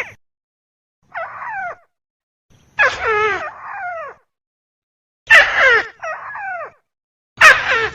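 Crake (burung tikusan) calling: four bouts of rapid, harsh, down-slurred notes about two seconds apart, the second and third bouts louder than the first.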